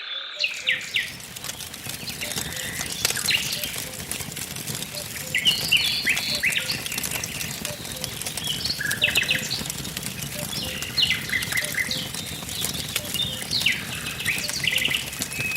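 Wood fire crackling and popping over a steady low rush, with small songbirds chirping and trilling in short repeated phrases.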